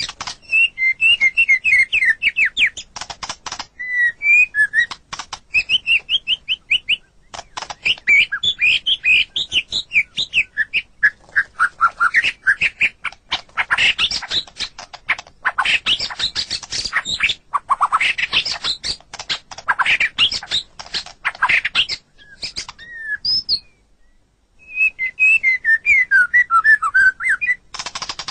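White-rumped shama (murai batu) singing a long, varied song: rapid runs of whistled chirps and trills mixed with harsh rattling, clicking notes, broken by a short pause near the end.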